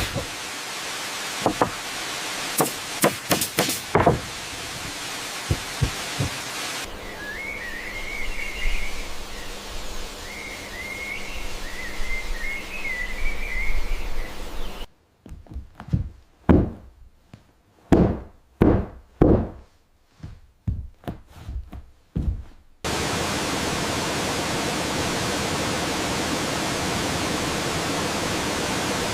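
A string of short scenes: sharp knocks and taps of construction work, a stretch of rushing noise with high wavering chirps, a run of about a dozen heavy blows, then from about 23 seconds in the steady rush of a waterfall.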